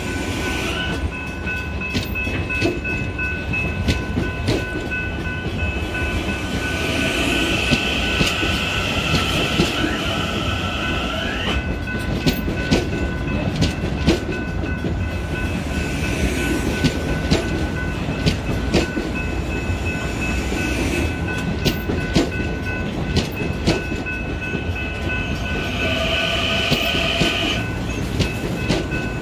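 Electric commuter train passing close by at speed, its wheels clattering over the rail joints in a steady run of clicks. A steady high tone rings beneath it, and a high hiss comes and goes twice.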